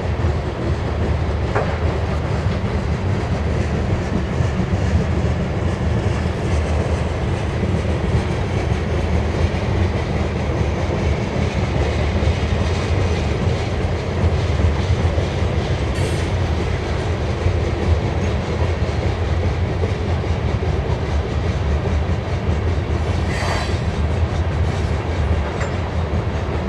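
Grain hopper cars of a BNSF freight train rolling past in a steady rumble and clatter of steel wheels on the rails. There is a brief higher squeal about two-thirds of the way through and another near the end.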